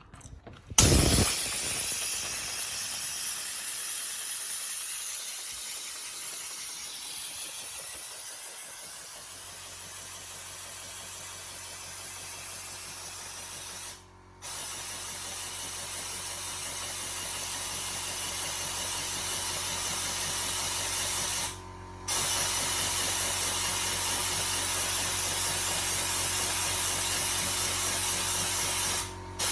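Compressed air hissing from a nozzle to drive a Sabu Disc replica turbine: a loud steady hiss that starts suddenly about a second in. A low steady hum joins about nine seconds in, and the hiss breaks off briefly three times.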